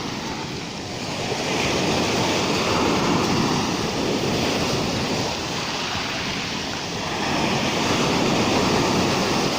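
Rough sea: waves breaking and washing up the shore, the surf swelling twice, about a second and a half in and again near the end.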